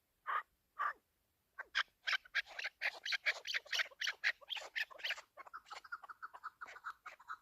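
Chukar partridge calling: a few separate short notes, then a fast run of chuck notes that thickens into continuous chattering about five seconds in.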